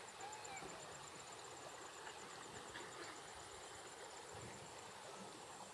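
Faint rural outdoor ambience: an insect, cricket-like, trilling in a steady, rapidly pulsing high tone, with a few faint short chirps.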